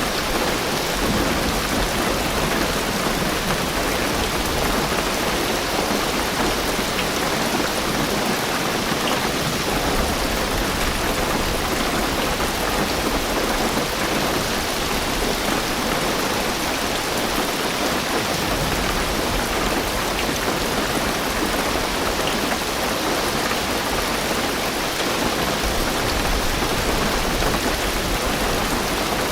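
Heavy rain drumming steadily on a car's roof and windows, heard from inside the car. A low rumble comes and goes underneath.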